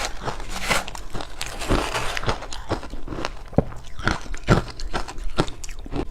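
Ice being bitten and chewed close to the microphone: a rapid, irregular run of sharp cracks and crunches, with a few louder snaps as the cubes break.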